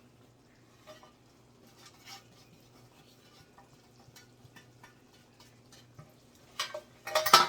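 Chicken in gravy simmering in a pan, giving faint scattered pops and ticks over a low steady hum. Near the end there is a loud clatter of cookware knocking against the pan.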